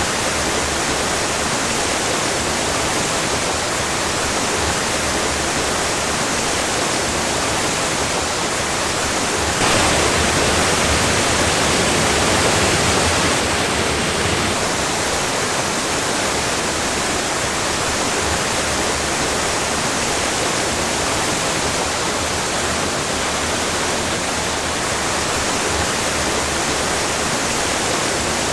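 Waterfall rushing steadily, a dense continuous roar of falling water that swells a little for a few seconds midway.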